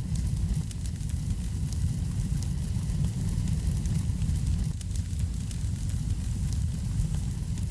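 Wood fire in a fireplace burning with a steady low rumble, with many small, sharp crackles and pops from the burning wood scattered throughout.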